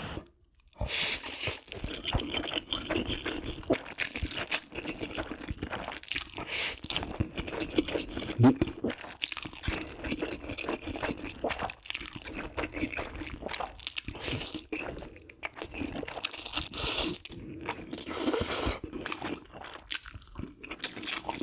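Close-miked eating of spicy Buldak and Jjapagetti noodles: wet slurping and chewing in a dense run of irregular smacks and clicks.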